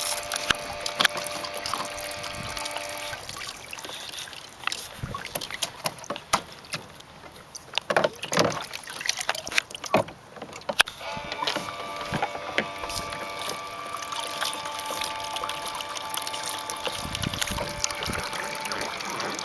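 Water splashing and hard plastic toy parts knocking and clattering at a children's plastic water play table, with a cluster of louder knocks in the middle. Several steady held tones sound underneath at the start and again from about halfway on.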